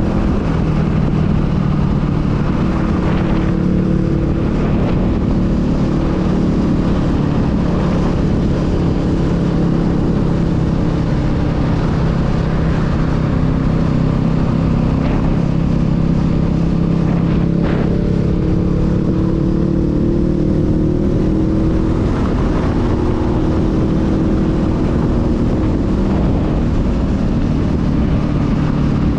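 Honda Rebel 500's parallel-twin engine running steadily at a cruise, with wind rumble at the rider's microphone. Its pitch eases a little past halfway, then climbs gently.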